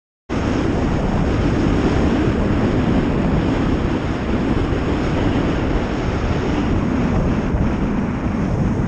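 Motorcycle riding noise: wind rushing over the rider's camera microphone mixed with engine and road noise, starting abruptly about a third of a second in and holding steady.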